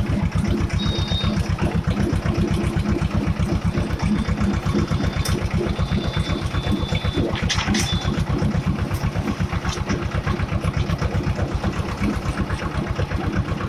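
Escort 335 tractor's three-cylinder diesel engine running steadily with an even, rapid chug, with a faint high whistle coming and going in the middle.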